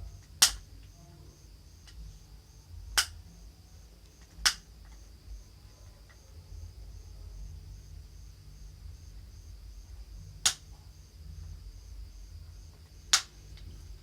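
Five sharp clicks, irregularly spaced, over a steady low hum and a faint high-pitched pulsing whine.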